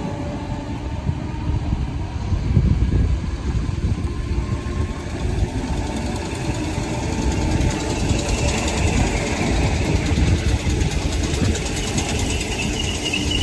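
Merseyrail Class 507 electric multiple unit running into the platform: a steady low rumble of wheels on rail and running gear. A high, steady squeal joins in near the end as it slows.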